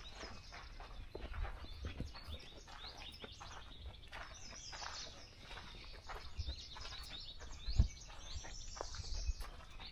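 Several songbirds chirping and trilling at once, with the low thuds of footsteps on a trail underneath and one sharper thump about eight seconds in.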